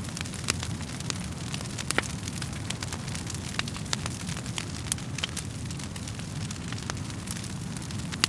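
Wood fire burning in a fireplace, with a steady low rumble of flames and frequent irregular sharp crackles and pops from the burning logs.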